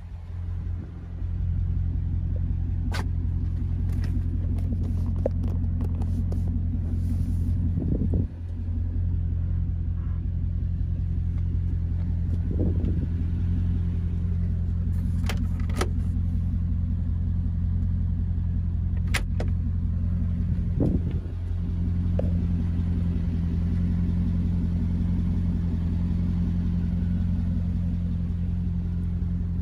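A 2005 Chevrolet Corvette's 6.0-litre LS2 V8 idling steadily with a low, even rumble, and a few light clicks over it.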